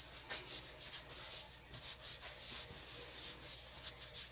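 Soft, irregular rubbing and brushing noises, several a second, from hands handling and tilting a paint-covered tile during an acrylic pour.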